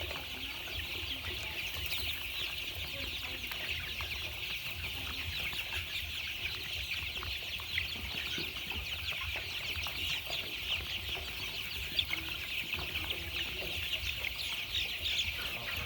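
A crowd of young chicks peeping continuously, many high cheeps overlapping, over a low steady rumble.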